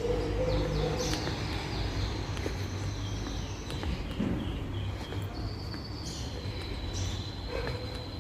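Small birds chirping in short, high calls, with a thin high note held through the second half, over a steady low rumble.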